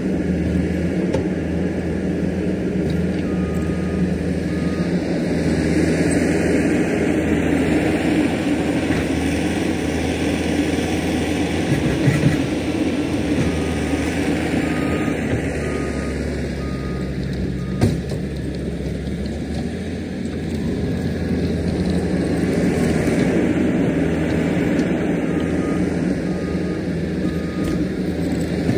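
Diesel earth-moving machinery running and working under varying load, its engine note swelling and easing every several seconds. Faint short beeps come in a few runs, and sharp knocks sound twice, about twelve and eighteen seconds in.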